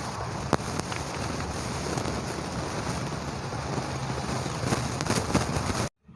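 Express passenger train's coaches rolling past at speed: a steady rush of wheel and rail noise with a few sharp clicks. The sound cuts off abruptly near the end.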